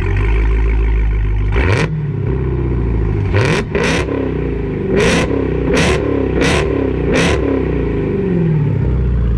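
Dodge Hemi V8 idling with a deep rumble, then revved: one rising rev about a second and a half in, then a quick run of about six sharp throttle blips, each falling back, before it settles to idle near the end.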